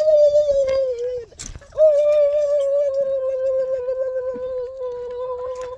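A person's voice holding two long, high, steady call notes, the second one about four seconds long.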